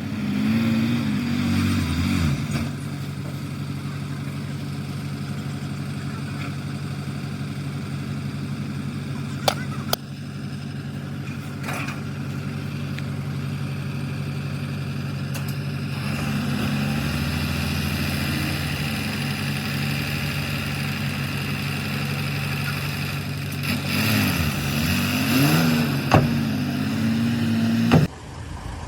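Heavy diesel engine of earthmoving machinery running steadily, revving up and down near the start and again about 24 seconds in, with a few sharp metallic clanks.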